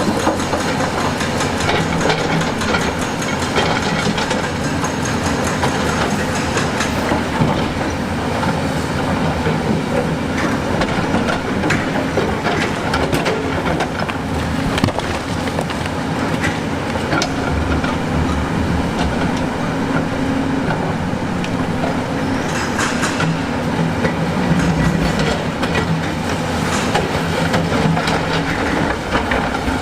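Heavy excavator's diesel engine running steadily, with a dense, irregular clatter of metallic clanks and knocks throughout.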